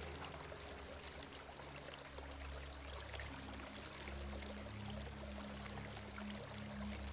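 Small stream flowing, a steady trickling water sound.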